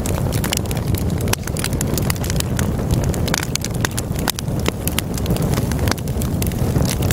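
Wood logs burning in a fireplace, crackling with many irregular sharp pops and snaps over the steady low rumble of the flames.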